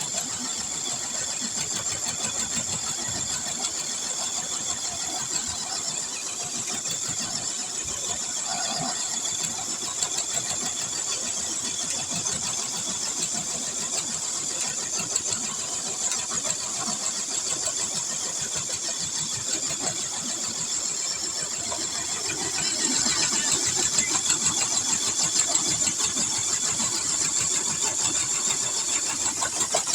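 Electric motor and geared drivetrain of an RC pulling truck with portal axles whining steadily under load as it pulls, getting louder for the last several seconds.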